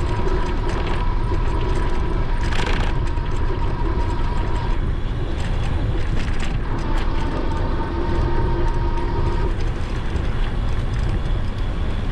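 Wind rushing over an action camera's microphone while riding an e-bike, with a steady whine from the electric motor that cuts out about five seconds in, comes back, and stops again near the end.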